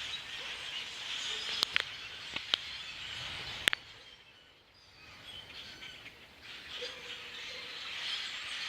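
A large flock of blackbirds chattering in the trees, a dense steady wash of many calls. A few sharp clicks in the first four seconds; the chatter drops away briefly around the middle and then comes back.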